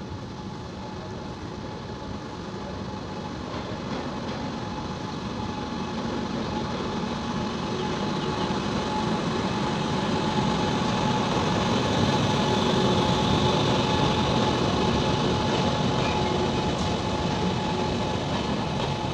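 Locomotive-hauled passenger train pulling into a station platform. The rumble of the locomotive and its wheels grows steadily louder as it nears, over a steady hum, then holds as the coaches roll past.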